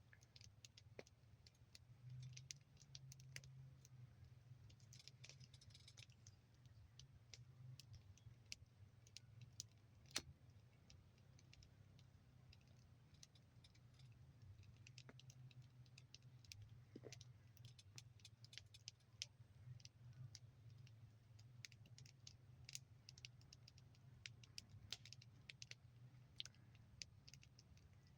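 Faint, irregular crackling and popping of a wood campfire burning large logs, with one sharper pop about ten seconds in.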